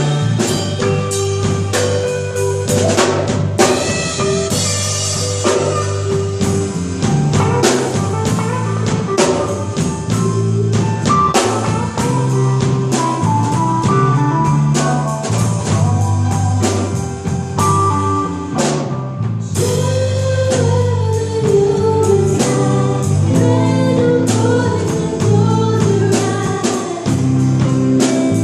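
Live band music: a drum kit keeping a steady beat under bass and guitar, with a wavering melody line in the second half.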